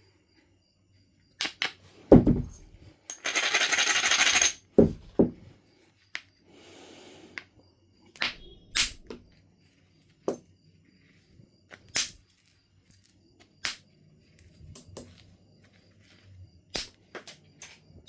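Knife River Flint being knapped: a string of sharp stone-on-stone clicks and cracks as flakes come off, the loudest a strike with a dull thump about two seconds in. Just after three seconds there is a scratchy scraping rasp lasting about a second and a half, and a fainter one a few seconds later.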